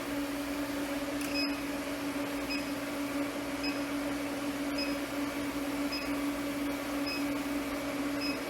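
Induction forge running, a steady hum as it heats a piece of steel. About a second and a half in there is a click, and from then on a short high beep repeats about once a second.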